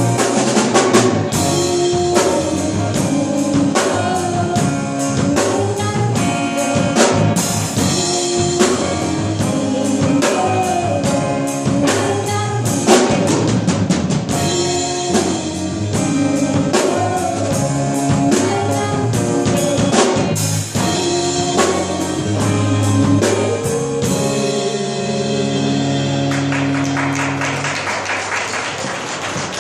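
Live band playing with drum kit, guitar and bass keeping a steady beat, mostly without vocals; the playing settles onto long held notes near the end.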